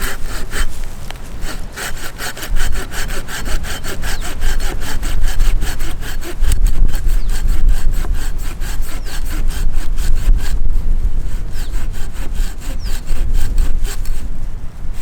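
A hand saw cutting through wood in quick, even back-and-forth strokes, about four a second, the strokes growing fainter from about ten seconds in.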